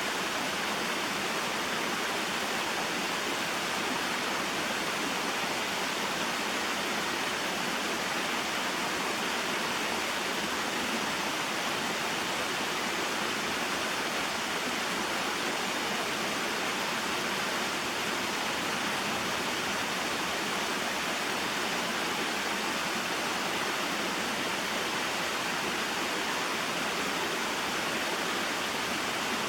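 Small waterfall and mountain stream: water falling and flowing in a steady, unbroken rush.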